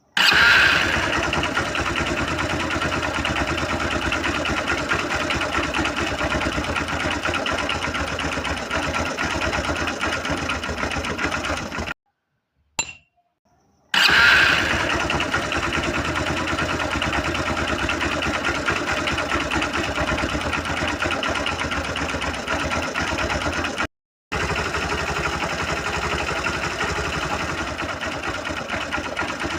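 Small engine of a homemade mini tractor running steadily with a fast pulsing note. The sound cuts off twice, for about two seconds and then for a moment, and comes straight back each time.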